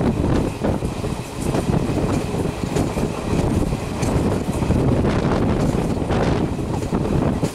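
Duronto Express passenger train running through a station at speed: a steady rumble with the wheels clattering over rail joints, and wind buffeting the microphone.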